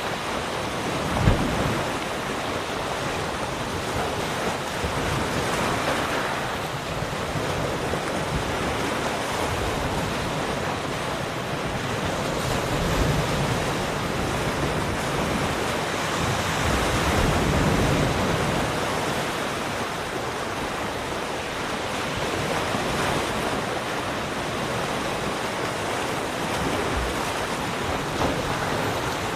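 Ocean surf: waves breaking and washing ashore in a continuous rush that swells and ebbs every few seconds. A brief low thump comes about a second in.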